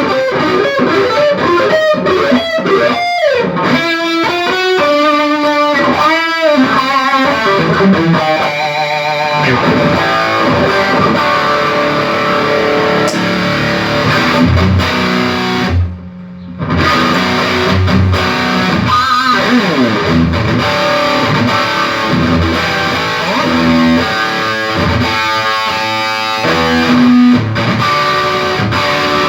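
Electric guitar played through a Peavey Triple XXX tube amplifier head on a sound test after its preamp capacitors were replaced and it was biased. Single-note lead lines with bent notes for the first several seconds, then fuller chord playing, with a short break about halfway through.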